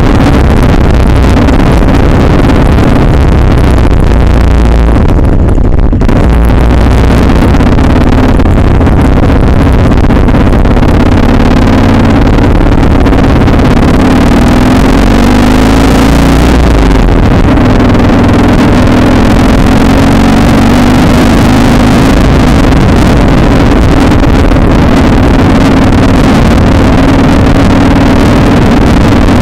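Harley-Davidson V-twin engine running loud and steady at road speed. Its note dips and then climbs again around the middle as the bike slows through a roundabout and pulls away.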